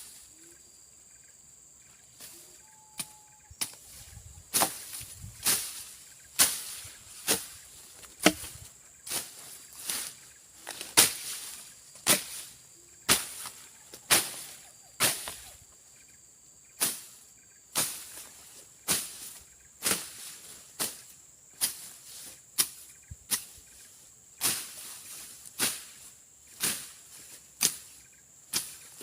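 Machete slashing through brush and grass, sharp swishing chops about one a second after a short pause at the start. A steady high insect drone runs underneath.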